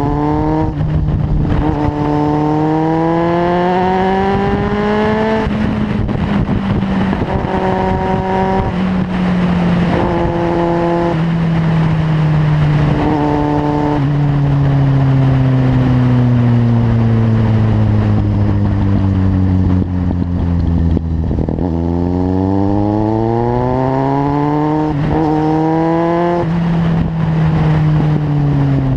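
Kawasaki Z750's inline-four engine through a LeoVince carbon aftermarket exhaust, riding along: it accelerates with the pitch rising, cut by a gear change about a second in, then eases off with the pitch falling for several seconds, and pulls up through the revs again with another gear change before easing off near the end.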